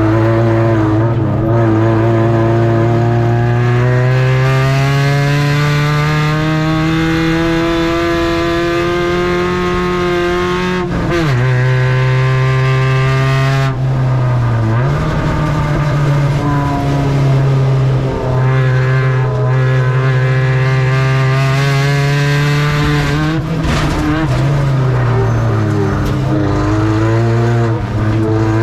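Spec Ranger race truck engine running hard at high revs, its pitch climbing steadily on the straights and falling sharply several times as the driver lifts off for the turns.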